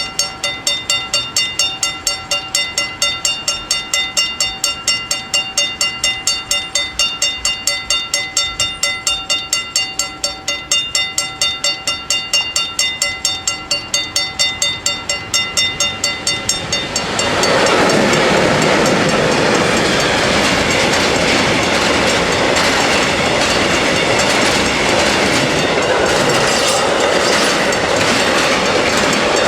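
Dutch level-crossing warning bells ringing in a fast, regular series of strokes while the barriers are down. About 17 seconds in, a train reaches the crossing and passes with a loud steady rush of wheels on the rails that covers the bells.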